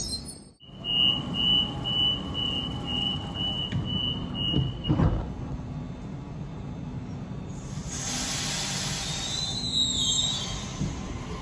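Sydney Trains double-deck suburban train standing at the platform: a high electronic warning beep repeating about two to three times a second for about four seconds, then a dull thud, and later a hiss of air.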